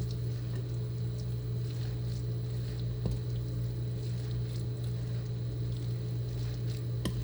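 Spoon stirring chicken salad dressed in mayonnaise in a bowl, a soft wet squishing with a couple of light clicks, over a steady low hum.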